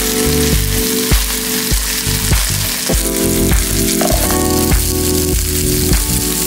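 Green onions and dried red chilies sizzling in hot oil in a wok as they are stir-fried. Background music with a run of changing notes plays over the sizzle.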